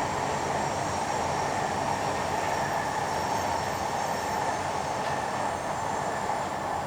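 Train running past at a distance: a steady rushing rumble with a few thin high tones above it.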